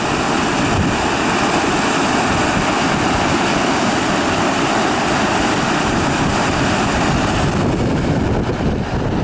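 Steady loud rush of a fast-flowing river in spate, mixed with strong wind buffeting the microphone.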